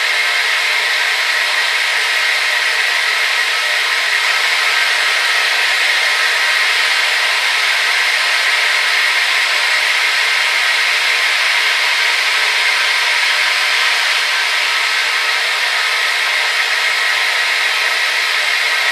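Hair dryer running steadily: a loud, even blowing hiss that centres high, around a bright rushing band, with a faint motor whine underneath.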